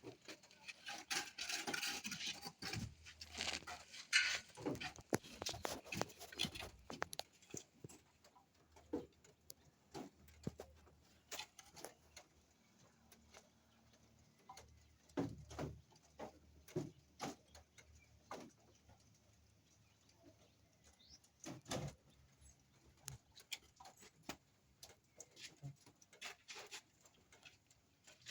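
Scattered knocks, clicks and scraping from handling tools and materials, with a busy spell of scraping and clatter over the first several seconds, then separate knocks a second or more apart.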